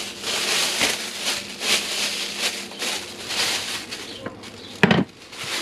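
Plastic bag crinkling and rustling in irregular bursts as it is handled and opened out for trash, with one sharp knock near the end.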